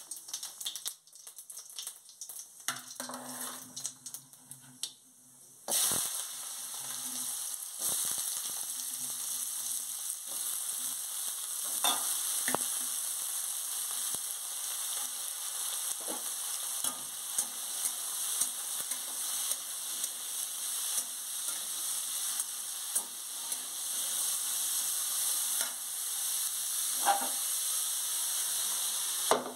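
Diced potatoes hitting hot oil in a kadhai about six seconds in, setting off a sudden, steady, loud sizzle of frying. A few sharp clicks of the spatula stirring them come through the sizzle; before the potatoes go in there are only a few light knocks.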